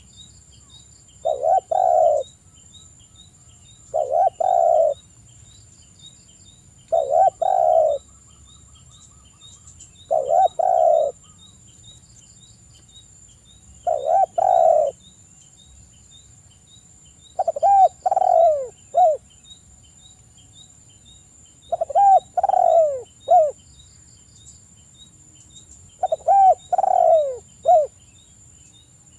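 Spotted dove cooing: eight phrases of two to four soft coos, one every three to four seconds, the later phrases ending on a falling note. A steady high whine and fast ticking, like insects, run underneath.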